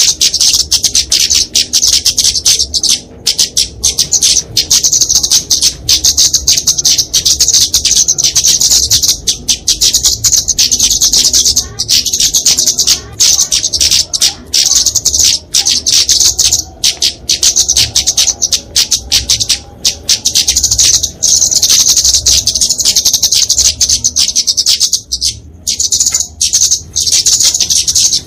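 Flowerpeckers (kemade, genus Dicaeum) giving fast, high-pitched, almost unbroken chattering calls, interrupted only by a few short pauses. These are the agitated fighting calls used to lure small birds.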